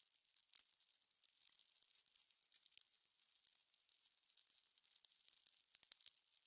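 Fire crackling: irregular sharp pops and snaps over a soft hiss, with a cluster of louder snaps near the end.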